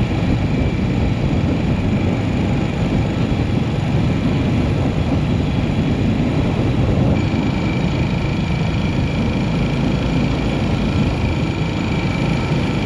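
Yamaha SR400's single-cylinder engine running steadily under way, mixed with continuous wind and road noise. A steady higher whine joins in about halfway through.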